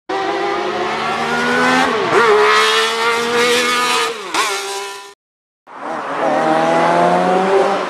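An engine revving, its pitch dipping sharply and recovering twice, then cutting off for half a second. Then a classic Mini's four-cylinder A-series engine accelerating through a gymkhana run, its pitch rising slowly.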